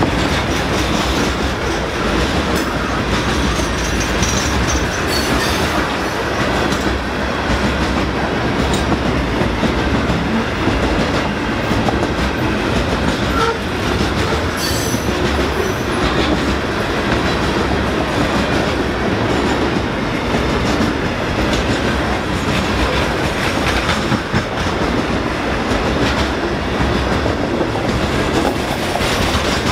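Freight train hopper cars rolling past close by: a steady loud rumble of steel wheels on rail, with repeated clacks and knocks from the wheels and cars.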